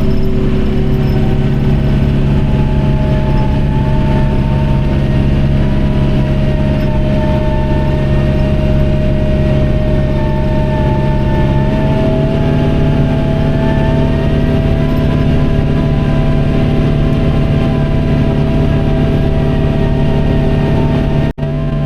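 John Deere 4066R compact tractor's four-cylinder diesel engine running steadily, with higher tones above it that waver gently up and down in pitch. The sound breaks off for an instant near the end.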